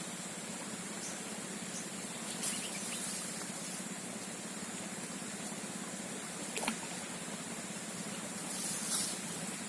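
Outdoor swamp ambience: a steady high-pitched hiss over a low hum, with three faint clicks or knocks.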